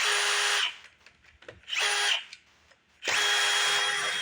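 Cordless power driver running in three bursts, the last and longest over a second, as it backs out the bolts holding the intake manifold. Each burst is a steady motor whine with a rattle over it.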